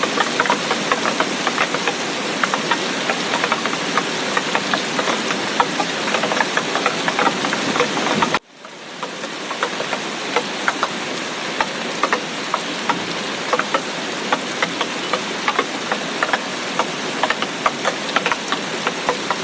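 Heavy tropical-storm rain falling steadily, with many sharp drop strikes close by. About eight seconds in the sound cuts out abruptly and fades back up within a second, a join in the recording.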